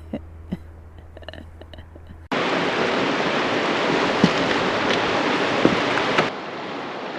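Rushing river water running over rocks, a steady loud hiss that starts suddenly about two seconds in and drops to a lower level near the end. Before it there is a quieter stretch with a low hum and a few small clicks.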